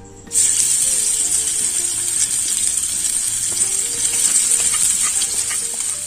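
Pounded spice paste of shallots, garlic, red chilli, candlenut and coriander sizzling in hot oil in a frying pan, starting abruptly about a third of a second in as the paste hits the oil and then going on steadily.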